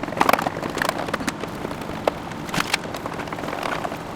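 Irregular clicks and light knocks of hand tools and screws against the housing of a water heater power vent fan as it is screwed back together, a cluster just after the start and another about two seconds in.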